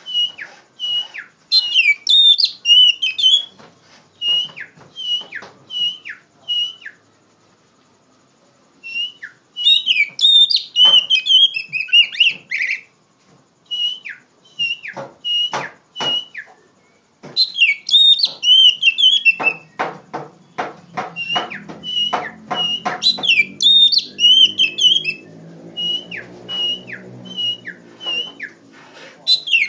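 Oriental magpie-robin singing loudly and steadily in repeated whistled phrases, with clear notes that sweep sharply downward, in bursts with short pauses between them. A low drone sits under the song for several seconds in the second half.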